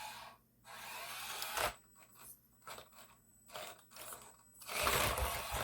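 Scraping and rubbing noises in several short stretches, louder near the end.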